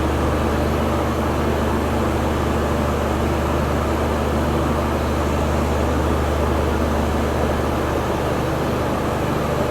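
Steady low hum and rush of a standing air-conditioned express train's coach air-conditioning equipment, running evenly without a break.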